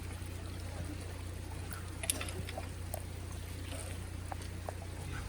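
Rain dripping: scattered light ticks and drips over a steady low hum.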